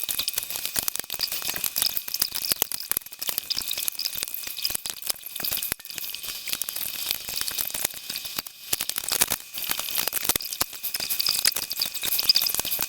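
Toy packaging being opened and handled: a steady run of crackling and rustling, like plastic and cardboard crinkling under the hands.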